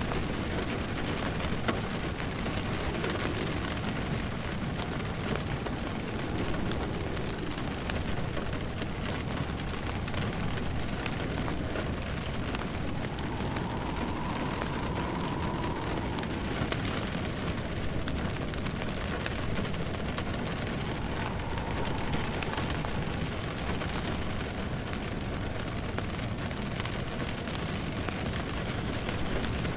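Steady rain on a surface mixed with a crackling wood fire, the crackles as fine clicks over the even hiss of the rain. A faint wind whistle rises and falls a few times.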